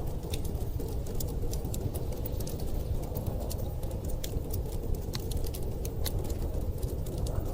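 Wood fire crackling in a fireplace, with frequent sharp little pops, over a steady low rumble of blizzard wind.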